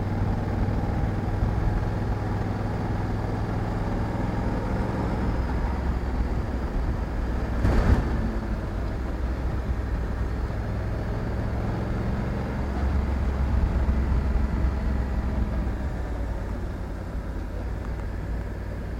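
Honda Africa Twin 1100 DCT's parallel-twin engine running steadily at low revs while riding, with a short sharp knock or buffet about eight seconds in. The engine gets a little louder for a couple of seconds past the midpoint and eases off near the end.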